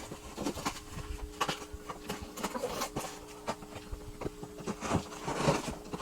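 Packaging being handled during an unboxing: irregular rustles, taps and scrapes, busier near the end, over a faint steady hum.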